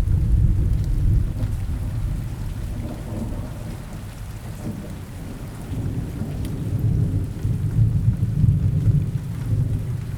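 Steady rain with thunder rumbling low beneath it. The rumble sets in suddenly, eases off midway, then builds again in the second half.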